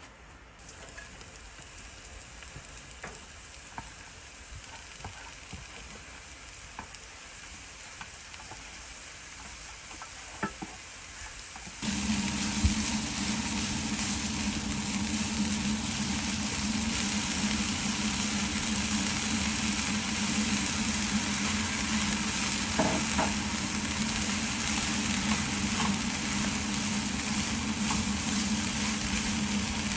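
Food frying in a pan, a steady sizzle with a few light clicks of utensils. About twelve seconds in it suddenly gets much louder, and a steady low hum joins the sizzle.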